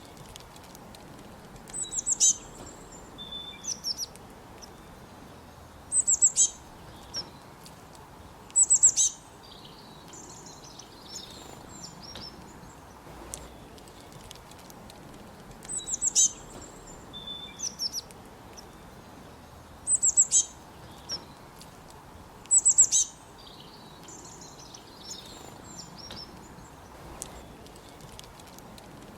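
A songbird singing short, high-pitched phrases of quick falling notes, repeated every few seconds over a faint steady background hiss.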